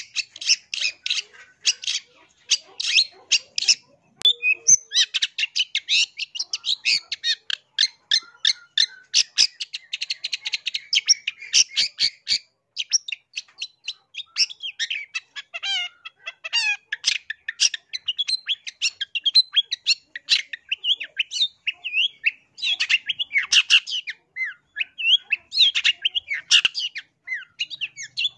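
Long-tailed shrike singing: fast runs of sharp, chattering notes, changing from a little before halfway into a varied string of short notes that glide up and down.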